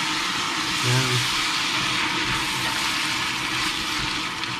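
Chopped tomatoes sizzling hard in hot oil, freshly added to a pan of ginger and onion fried golden brown: a loud, steady hiss that eases off at the very end.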